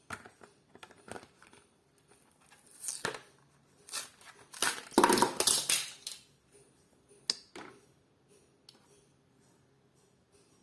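Plastic blister packaging and cardboard backing of a Hot Wheels die-cast car crinkling and crackling in irregular bursts as it is opened. The bursts are loudest about five seconds in, with a sharp click a little after seven seconds.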